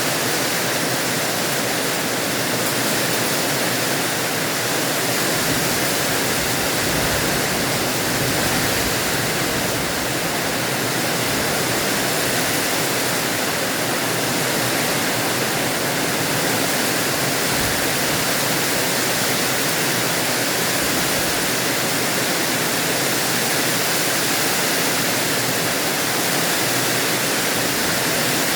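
Rain falling steadily, a loud, even hiss without a break.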